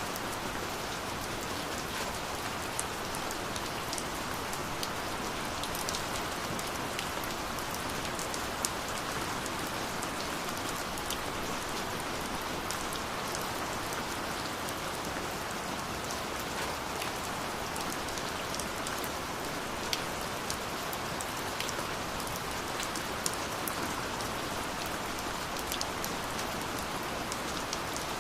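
Steady rain falling, an even hiss with many scattered sharper clicks of individual drops hitting.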